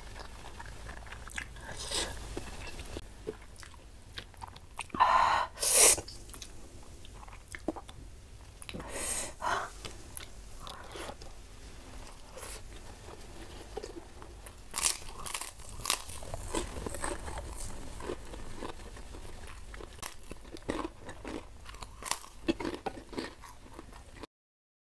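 Close-miked eating: a person chewing rice and spicy beef, with wet mouth clicks and crunchy bites at irregular intervals. The loudest crunches come about five to six seconds in, and again around nine and fifteen seconds.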